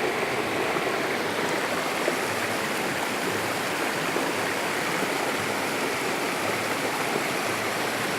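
Waterfall pouring and splashing into a pool, a steady rush of water.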